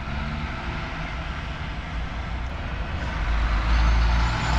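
Road traffic with a heavy truck's engine rumble growing louder from about three seconds in as it draws near.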